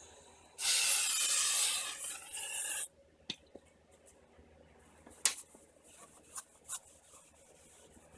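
Aerosol brake cleaner spraying in one hiss of about two seconds, briefly broken near its end, followed by a few light clicks.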